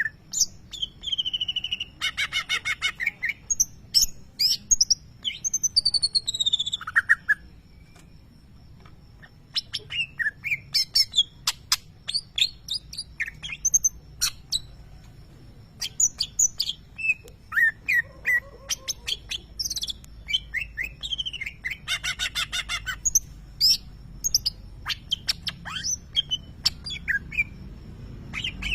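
Greater green leafbird (cucak ijo) singing a fast, varied song of sharp whistles, slurred notes and harsh rattling runs, with mimicry of lovebird calls. There is a short pause about a third of the way through before the song resumes.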